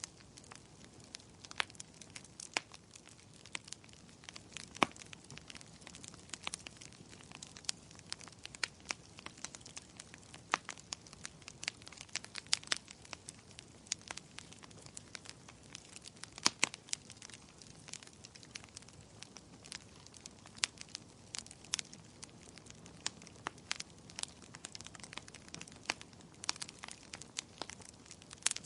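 Burning firewood crackling in a fireplace: irregular sharp pops and snaps, several clearly louder than the rest, over a soft steady hiss of the flames.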